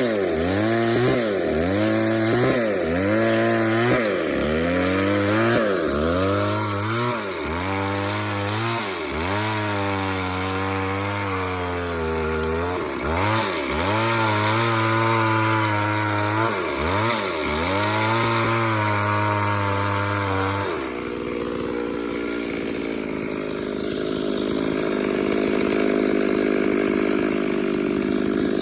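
Chainsaw cutting wood, its engine note dipping under load and recovering about every second. About 21 seconds in the pitch steadies into an even higher note.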